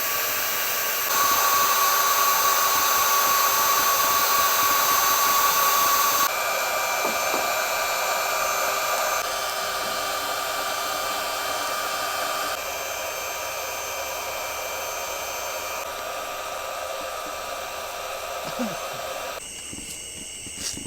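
Electric air pump running steadily with a hiss and a high whine while inflating an inflatable boat. The whine and loudness change abruptly several times and grow quieter toward the end.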